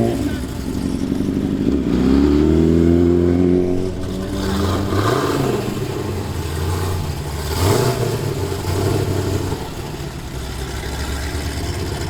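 Car engine revving: it climbs about two seconds in and holds briefly, drops back, then gives two short throttle blips over a steady idle.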